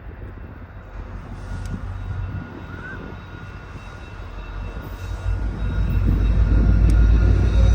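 Train at a station: a deep, low rumble that builds steadily and grows much louder toward the end, with faint steady high-pitched whine tones.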